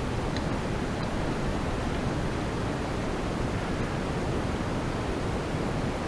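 Wind buffeting the microphone: a steady rushing noise, heaviest in the low end, with no distinct events.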